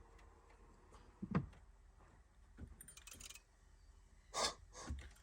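A few scattered knocks and clicks of things being handled over faint room noise, with a low thump about a second and a half in and a sharper clack near the end. No engine is running.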